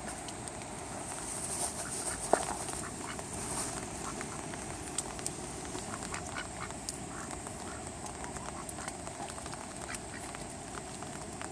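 Ducks quacking as they feed in the rain, over a steady hiss of rain with many small scattered clicks. One sharp, louder sound stands out a little over two seconds in.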